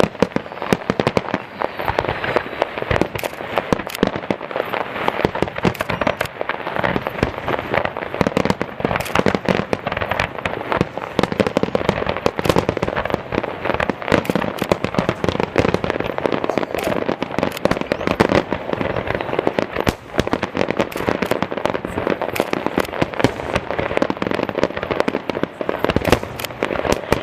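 Professional fireworks display: a dense, unbroken barrage of shell bursts and crackling, many bangs a second.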